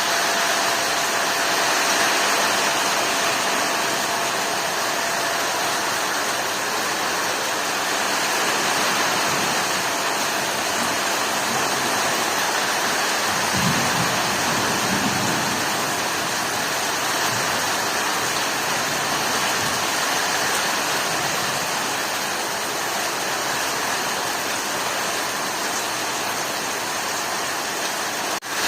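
Heavy rain pouring steadily during a storm, with a brief low rumble about halfway through.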